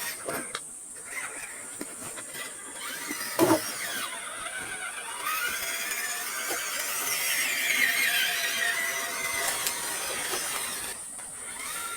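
Electric motor and gear drive of a 1/10-scale RC rock crawler whining, the pitch rising and falling with the throttle. There is a sharp knock about three and a half seconds in.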